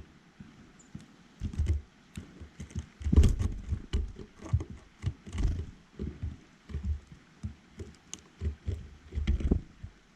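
A rapid, irregular run of knocks and thumps close to the microphone, mostly dull and low, with a few sharper clicks among them.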